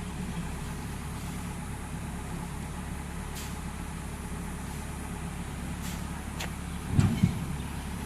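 Tow truck's engine idling steadily with a low, even hum. A few faint clicks are heard, and there is a short, louder low thump about seven seconds in.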